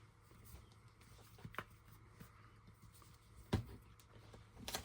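Quiet handling noises at a craft table: a few light taps and knocks from paper and craft items being moved, the clearest one a little past the middle, with a brief rustle near the end.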